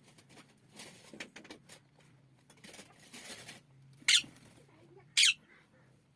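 Parrot giving two short, sharp squawks about a second apart, near the end, after some soft rustling.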